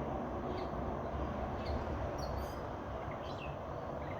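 Songbirds singing outdoors: short, high, falling chirps repeated about once a second, over a steady low background hum of outdoor noise.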